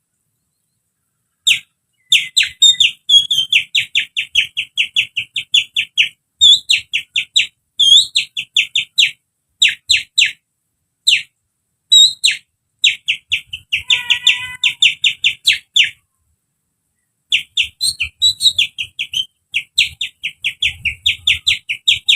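Human hand-and-finger whistling imitating a sooty-headed bulbul (kutilang) song: rapid runs of short, sharp chirps, about four or five a second, in several phrases broken by short pauses.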